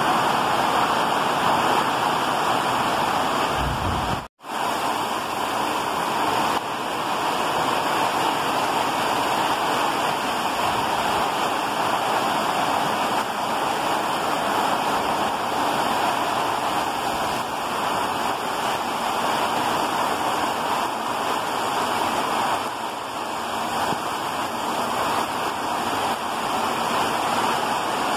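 Heavy tropical rain pouring down steadily, a dense, even hiss of rainfall on leaves and roofs. The sound cuts out for a moment about four seconds in.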